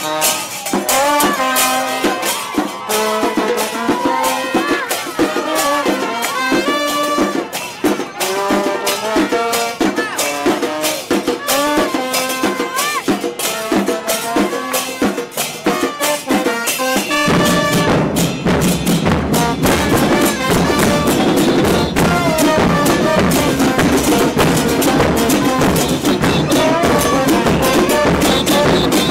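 Murga carnival music: a melody over light percussion, then about seventeen seconds in the bass drums and cymbals come in loudly and keep a driving beat.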